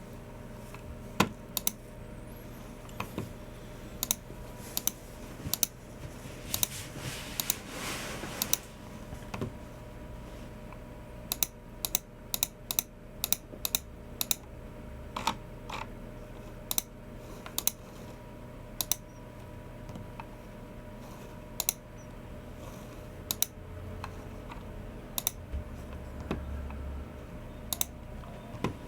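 Typing on a Logicool MX Keys Mini low-profile keyboard: sharp keystrokes in sparse, irregular bursts, quickest in a run about halfway through. About seven seconds in there is a brief rustling noise, and a faint steady hum lies underneath.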